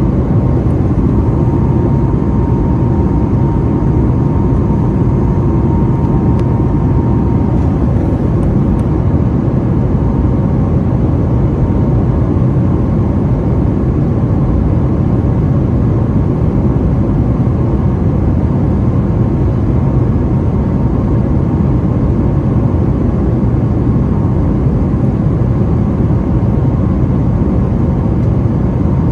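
Steady cabin noise inside a Boeing 737-900ER in flight: engine and airflow noise heard as an even, low rumble. A faint steady tone in it stops about seven seconds in.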